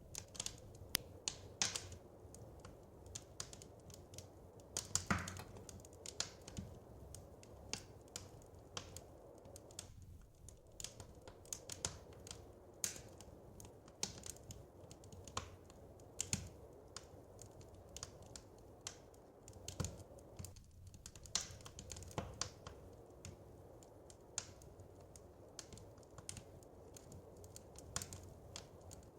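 Wood fire crackling in a fireplace: irregular sharp pops and snaps, a few louder ones among many small ticks, over a low steady rush.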